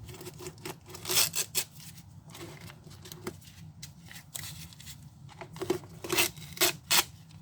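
Adhesive tape being peeled off in short tearing pulls: a few about a second in and a quick run of pulls near the end.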